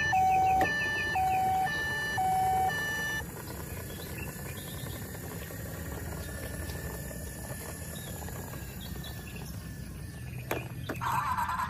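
Battery-powered toy emergency vehicle's electronic siren, alternating between a low and a high tone about once a second for the first three seconds, then cutting off. Afterwards only a faint steady background, with a couple of clicks and a brief buzzing sound near the end.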